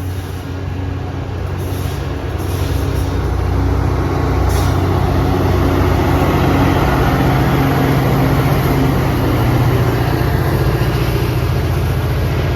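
Caltrain diesel-hauled commuter train pulling out, a steady low engine rumble that grows louder over the first few seconds and then holds.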